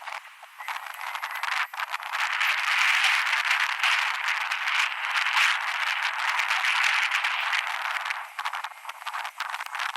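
Wind buffeting the microphone during a ride: a rushing noise that swells about two seconds in and eases near the end, with a stream of rattling clicks throughout.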